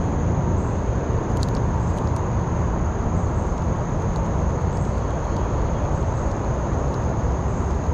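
Creek water rushing steadily over rocks, with a low rumble and no breaks.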